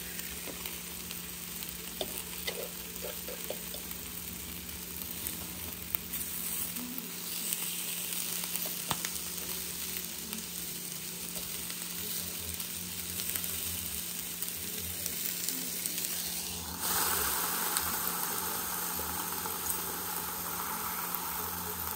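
Chicken breasts sizzling on a George Foreman electric contact grill, a steady frying hiss with a few light clicks early on. About 17 seconds in the sizzle turns abruptly louder and brighter.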